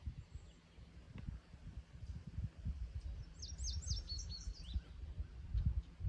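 A small bird chirping a quick run of short, high, downward-sliding notes about halfway through, over an uneven low rumble.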